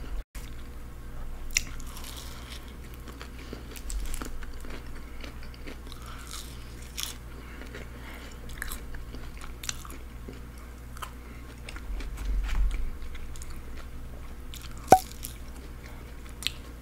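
Close-miked eating sounds: a person chewing a fast-food sandwich and a breaded chicken nugget, with wet mouth noises and scattered crisp bites and crunches over a low steady hum. There is one sharp click about fifteen seconds in.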